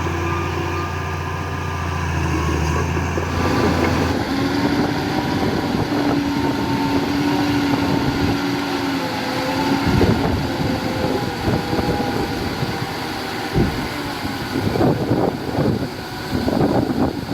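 Diesel engine of heavy earthmoving machinery running: a deep steady hum for the first few seconds, then a noisier, rougher run with a wavering whine, and a cluster of knocks and rattles in the last few seconds.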